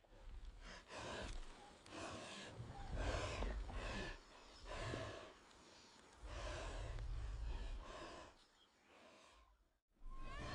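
Wild boar snorting and breathing hard in rough bursts about a second apart while it struggles in a giant python's coils, with a low rumble under some of them; the sound cuts off suddenly near the end.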